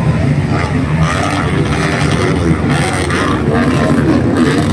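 Trail motorcycle engines running steadily in a loud, continuous drone.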